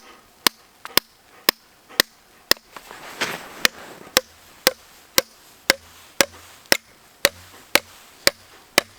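A tent stake being hammered into frozen, gravelly ground: a steady run of sharp strikes, about two a second.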